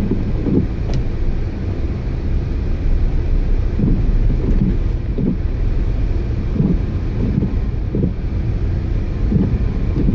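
Storm wind buffeting the microphone: a loud, low rumble with irregular gusts surging and dropping.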